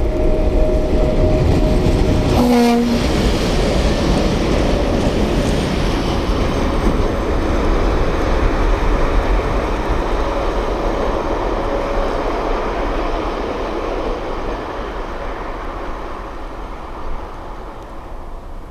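A train running past on the rails, a loud steady rush of wheel and rail noise that slowly dies away toward the end. A faint steady whine sits under it for the first two-thirds, with a short tonal blip about two and a half seconds in.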